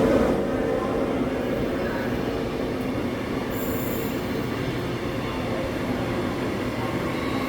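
Transperth A-series electric multiple-unit train departing, a steady rumble of wheels on rail that eases just after the start. A brief high-pitched squeal comes about three and a half seconds in.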